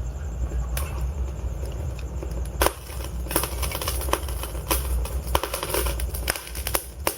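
Burning logs crackling and popping in a fireplace over a steady low rumble of flames. The pops come thicker and sharper from about two and a half seconds in.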